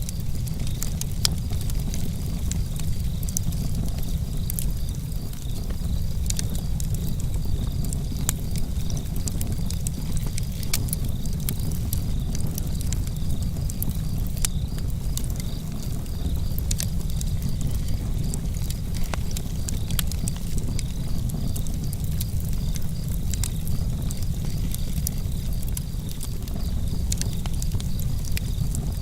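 Campfire burning: a steady low rumble of flames with many small, sharp crackles and pops scattered through it.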